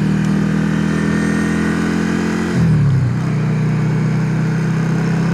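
Yamaha XVS650's air-cooled V-twin engine running steadily under way. About two and a half seconds in, the revs drop and the engine settles at a lower, steady note.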